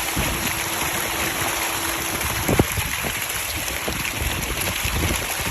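Continuous splashing and churning of water in a tilapia farming pond, with a sharper splash about halfway through. A faint steady hum runs under the first half and stops.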